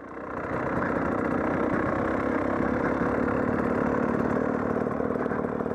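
Dirt bike engine running, growing louder over the first second and then holding steady.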